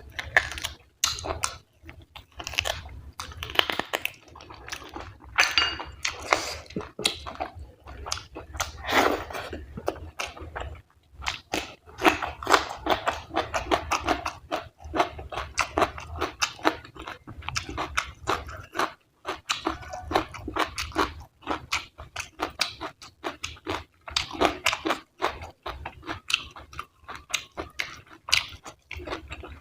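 Close-miked chewing of fatty mutton curry and rice: a steady, irregular run of wet mouth sounds and short sharp clicks, with brief pauses between mouthfuls.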